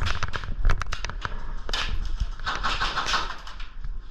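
Airsoft guns firing: a quick run of sharp snapping shots in the first second or so, then scattered single shots, with two noisy stretches in the middle.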